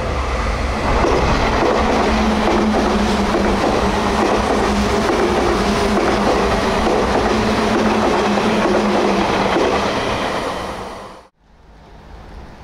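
Sotetsu 8000-series electric train passing close at speed: wheels running on the rails under a steady hum. The sound cuts off abruptly near the end, followed by a much quieter approaching train.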